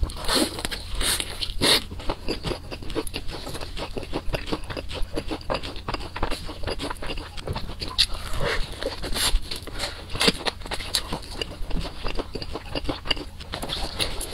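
Close-miked eating of sauce-coated fried chicken: steady crunching and wet chewing and smacking, with a few louder, sharper crunches scattered through.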